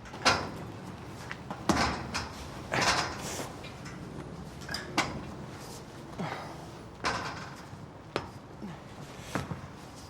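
Irregular sharp knocks and thuds, roughly one a second, with a few short breaths between them: footsteps and clambering of someone climbing.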